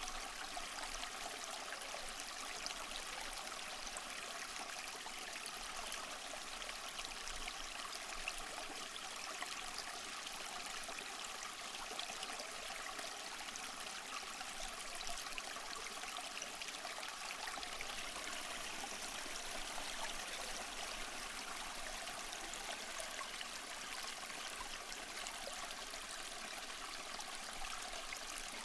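Small waterfall splashing and trickling steadily, a continuous bright water noise with fine splashes and little low rumble.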